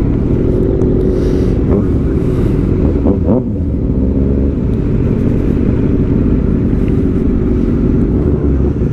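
Suzuki GSX-R750 inline-four sport bike, fitted with aftermarket headers, midpipe and an M4 slip-on exhaust, running steadily under way on a ride. Its pitch dips and comes back up briefly about three seconds in.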